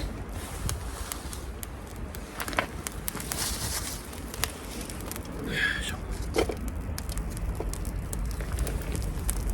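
Small wood fire crackling, with scattered sharp pops throughout and a few louder short sounds in the middle.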